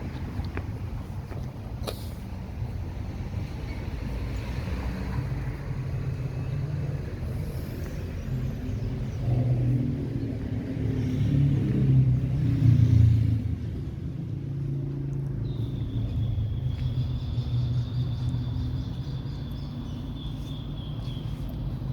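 City street traffic: car engines and tyres rumbling by, with one vehicle passing loudest about ten to thirteen seconds in. A thin, steady high-pitched whine runs through the later part.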